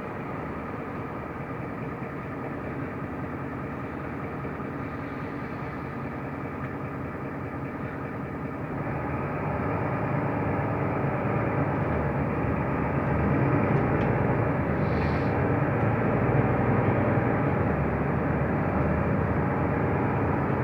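Mercedes-Benz O345 Conecto LF city bus in motion, heard from inside: steady engine and road noise that grows louder about nine seconds in.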